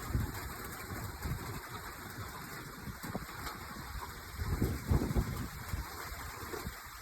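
Rain falling, with low rumbling gusts of wind on the microphone; the strongest gust comes about five seconds in.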